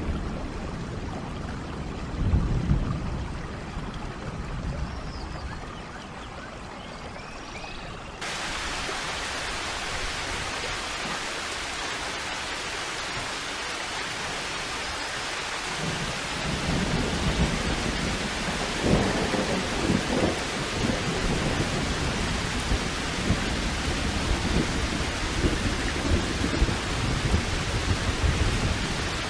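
Heavy rain falling in a steady hiss, with rumbles of thunder rolling in about halfway through. It begins with a quieter, duller water sound that cuts abruptly to the rain about eight seconds in.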